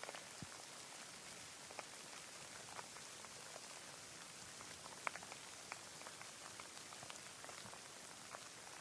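Steady rain falling, an even hiss with scattered individual drops ticking close by; one sharper drop about five seconds in.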